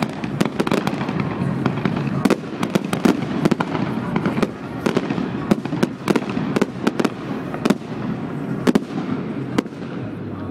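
Fireworks display: a dense, irregular run of sharp bangs and crackles over a continuous rumble.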